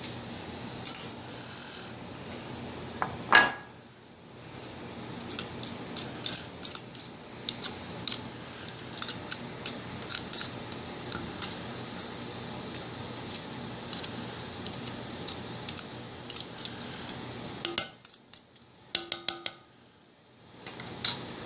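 A utensil clinking and tapping against a mixing bowl as cake batter is stirred: many quick, irregular clicks, with a few louder knocks, and ringing clinks near the end.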